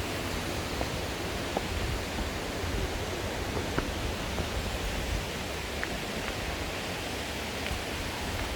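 Steady rush of water from a mountain stream and waterfall, with a few faint ticks of splashing water scattered through it.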